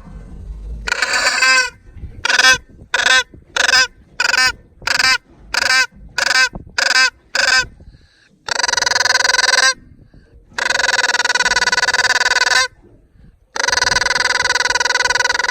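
Goose honking: a run of about ten short honks, roughly two a second, then three long drawn-out honks of one to two seconds each.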